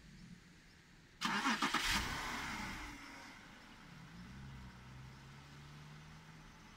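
BMW E60 5 Series engine being started: the starter cranks briefly about a second in and the engine catches, flares up and then settles to a steady idle.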